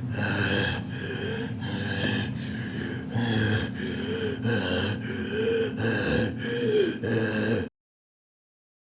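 A person gasping and breathing heavily in a steady rhythm, about one breath every 0.8 seconds, some breaths voiced. It cuts off suddenly near the end.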